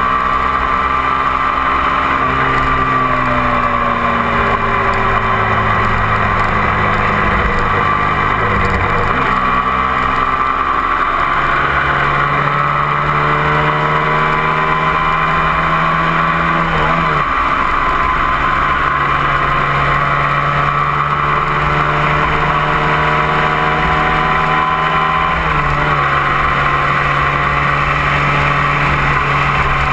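A 250 cc twin-cylinder sport motorcycle engine running under load at highway speed, heard close up with steady wind and road noise. Its pitch sags slowly, then steps up and down a few times as the throttle and gears change.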